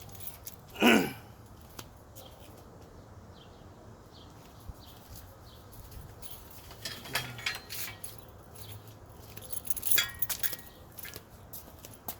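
Light scattered metal clinks and rattles from a heavy-duty floor jack being handled and set under the car, with one short squeal that falls in pitch about a second in.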